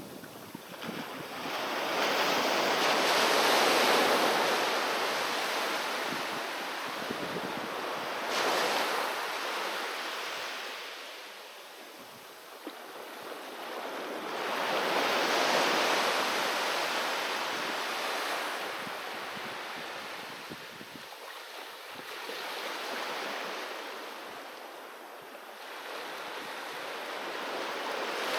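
Sea waves breaking and washing up on the shore: the surf hiss swells and fades in three big surges, with a short, sharper splash about eight seconds in and another wave building near the end.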